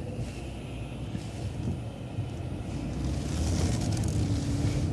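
Vehicle engine and road noise heard from inside a moving vehicle, a steady low rumble with a hiss that swells in the second half as it makes a turn.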